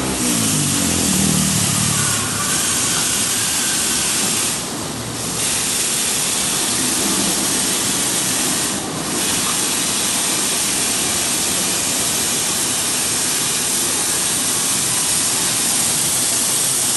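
High-pressure water spray hissing steadily, dipping briefly three times as the jet is interrupted.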